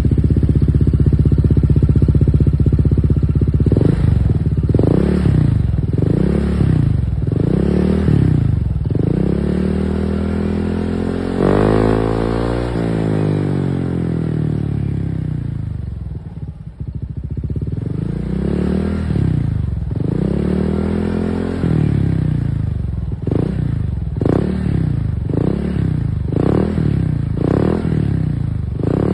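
Honda PCX160 scooter's single-cylinder engine through an aftermarket racing exhaust, idling steadily at first and then revved in repeated short throttle blips, with one longer rev that falls back slowly and quicker blips near the end.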